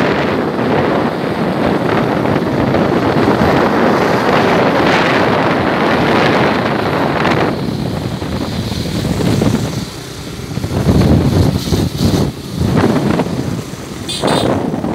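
Wind buffeting the microphone on a moving motorcycle, mixed with engine and road noise. The rush eases about halfway through and then comes in surges. A brief high-pitched beep sounds near the end.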